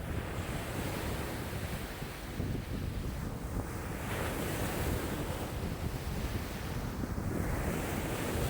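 Lake waves breaking and washing in strong wind, with wind buffeting the microphone as a low rumble. The hiss of the water swells and fades in slow surges every few seconds.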